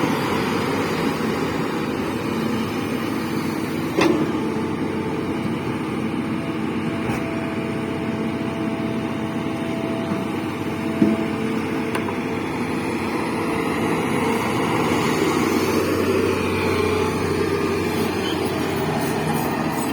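Diesel engine of a heavy earthmoving machine, a backhoe loader or excavator, running steadily under work. Two short knocks sound over it, and a faint whine is held for a few seconds midway.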